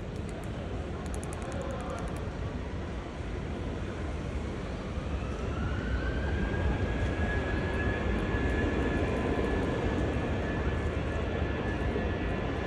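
Jet airliner passing overhead. Its engine rumble swells from about four seconds in, joined by a whine that rises and then holds steady.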